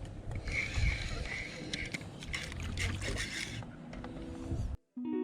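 Water sloshing and light knocks of handling on a kayak, over a low rumble of wind on the microphone, while a small redfish is landed. Near the end it cuts out abruptly and a plucked acoustic guitar chord begins and holds.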